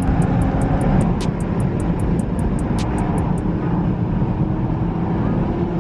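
Car travelling at speed on a highway: a steady, loud rumble of road, wind and engine noise. A faint rapid ticking, about four or five a second, runs alongside and stops about halfway through.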